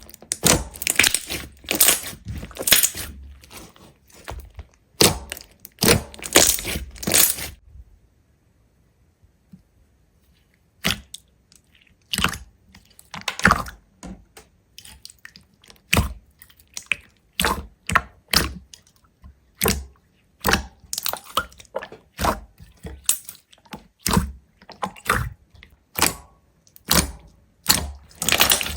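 Sharp cracks and crunches, dense and clustered at first, then a pause of a few seconds, then single crisp cracks at about one a second.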